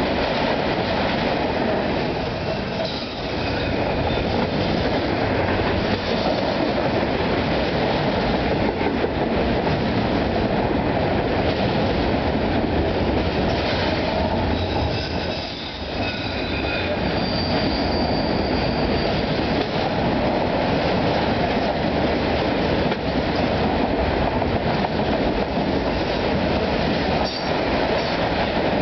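Norfolk Southern freight train of autorack cars rolling past close by: a steady, loud rumble and clatter of steel wheels on the rails. Faint high-pitched wheel squeals come through now and then, most clearly a little past the middle.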